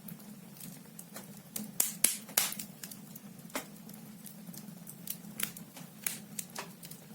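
Firewood logs burning in a fireplace, crackling with irregular sharp pops, a cluster of louder ones around two seconds in. A steady low hum runs underneath.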